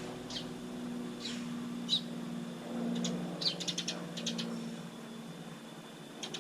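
Small birds calling: a few short, high chirps, then a quick rattling run of chirps about three and a half seconds in, over a low steady hum.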